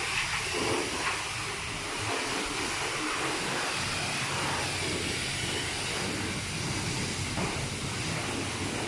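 High-pressure water spray hitting a car's body at a car wash: a steady hiss and rush with small rises and falls.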